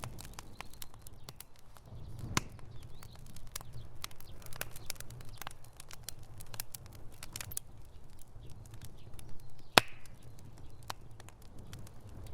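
Wood fire burning in a fireplace, crackling with irregular snaps and pops over a low steady rumble of flames. One sharp pop about ten seconds in is louder than the rest.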